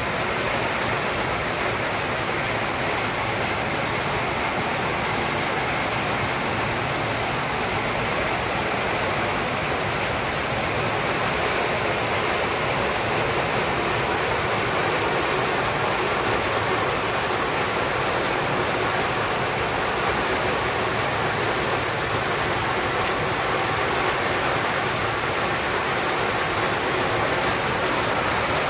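Rushing water, a steady and even noise that holds unchanged throughout.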